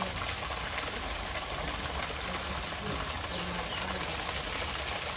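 Steady outdoor ambience: a constant noise bed with a low rumble and faint distant voices.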